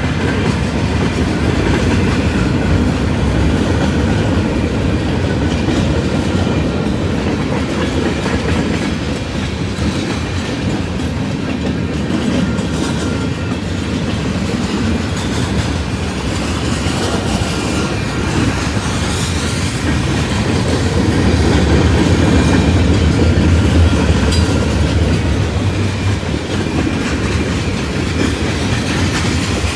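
Train cars rolling past on the rails: a continuous rumble with the clickety-clack of wheels over the track, growing a little louder about two-thirds of the way through.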